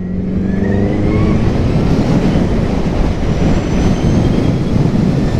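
Electric motorcycle (a 2016 Zero FXS) pulling away, its motor whine rising in pitch for the first second or so, then steady wind and road rush at speed.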